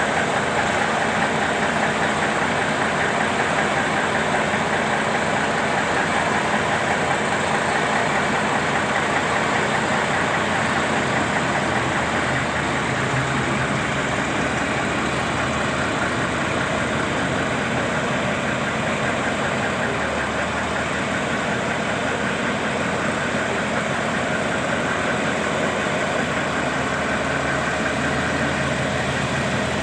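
Truck engine idling steadily, with the low engine note shifting partway through.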